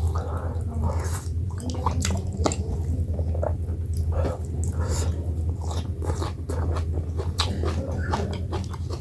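Close-miked eating sounds: wet chewing with many quick mouth smacks and clicks, over a steady low hum.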